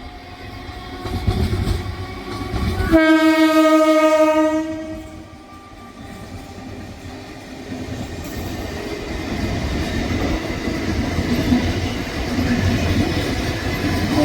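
Train horn sounding one blast of about two seconds, then the rumble of an approaching train growing steadily louder.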